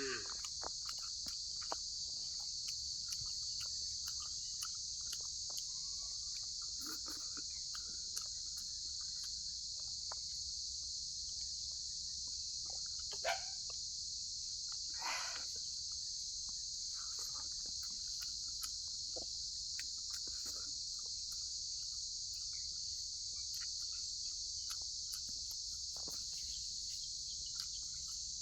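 Steady, high-pitched chorus of insects throughout, with scattered small clicks and taps and two brief louder sounds about halfway through.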